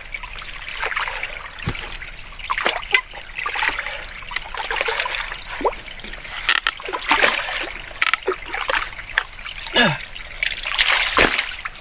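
Running water trickling and gurgling, with frequent small splashes and plops.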